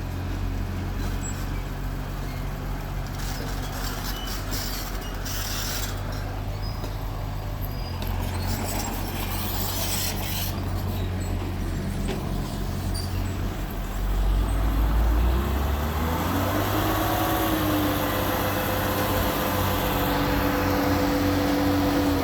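Heavy diesel earthmoving machinery running, with some clanking in the first half. About two-thirds of the way in the engine revs up and holds at a higher pitch.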